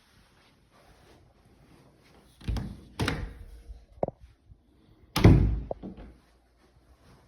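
A door being handled: a few thuds and a sharp click, the loudest thud a little after five seconds in.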